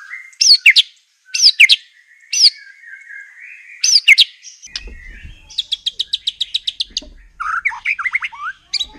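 Wild white-rumped shama singing: loud, sharp whistled notes that sweep up and down, then a fast trill of repeated notes, then a run of quick slurred notes near the end.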